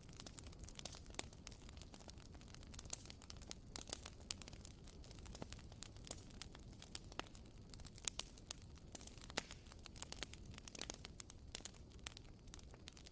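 Wooden-wick candle burning with a soft, irregular crackle: many small sharp pops a second, like a tiny campfire.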